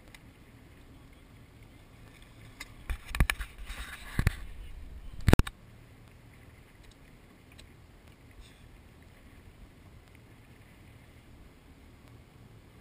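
A few sharp knocks and bumps over about three seconds, with a short rush of noise between them, the loudest knock last; faint steady background before and after.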